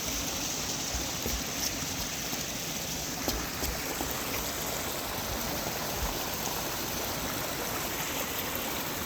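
Stream water running steadily, an even wash of flowing water with a few faint clicks.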